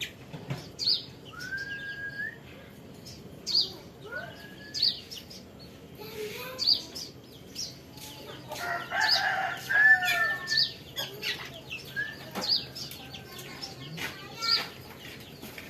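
Young kolibri ninja sunbird calling: short chirps, each with an upward-sliding note, repeated about every second and a half. A louder call, most likely a rooster crowing, comes about halfway through.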